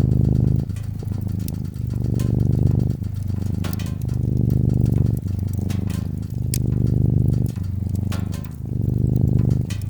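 Domestic cat purring loudly and steadily, the purr swelling and easing in cycles of about two seconds as it breathes in and out, with sharp crackles and pops of a wood fire scattered over it.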